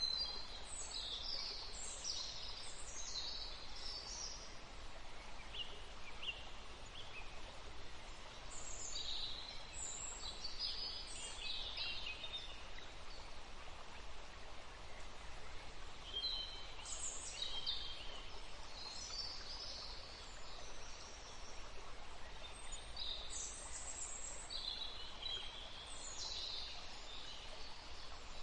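Songbirds singing in four spells of quick, high chirps and trills, separated by short gaps, over a steady background hiss.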